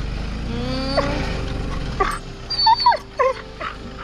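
A dog whimpering and yipping in short, high, wavering cries through the second half. Under it, a low vehicle rumble with a rising whine dies away about two seconds in.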